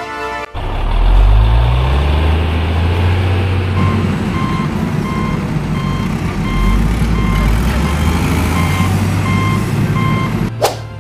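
Heavy diesel vehicle engine sound effect: a low rumble that revs up about a second in and then runs steadily. A reversing alarm beeps about twice a second through most of it, stopping shortly before the end.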